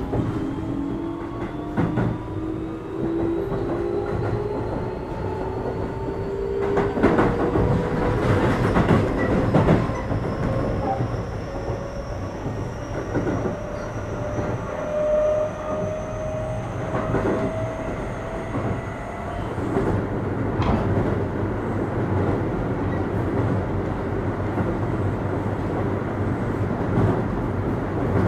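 Keio 8000 series train's Hitachi SiC VVVF inverter and traction motors whining, heard from inside the car: several tones rise steadily in pitch as the train accelerates, then die away about 19 seconds in as power is shut off and it coasts. Wheels knock over rail joints over a steady running rumble.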